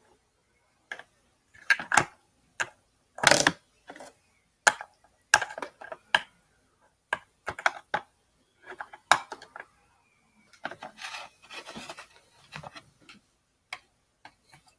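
Small plastic toys and props being handled: a series of sharp clicks and knocks, irregularly spaced, with a stretch of scraping and rustling about two thirds of the way through.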